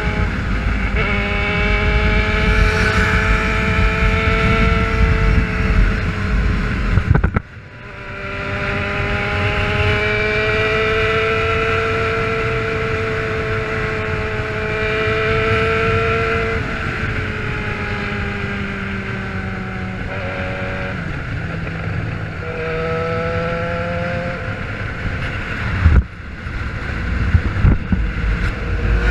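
Motorcycle engine held at high revs while riding, a steady drone that drifts slowly in pitch, with wind rushing over the microphone. The engine sound drops away suddenly about seven seconds in and builds back, and dips briefly again near the end.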